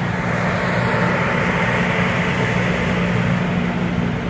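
Steady mechanical drone with a low hum, like a generator running, probably powering air conditioning and ventilation for a temporary restaurant setup.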